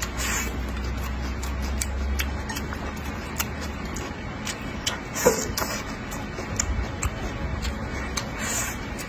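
Close-up eating sounds: a man chewing braised pork belly and greens, with many small wet mouth clicks and lip smacks and a louder wet mouth sound about five seconds in.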